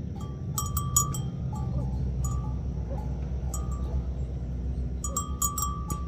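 Bells on grazing livestock clanking irregularly, short ringing clinks in scattered clusters, over a low steady rumble.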